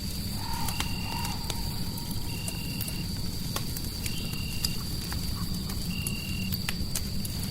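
Fireplace fire crackling with scattered sharp pops, over a steady low rumble and a steady high tone. A short high chirp repeats about every second and a half.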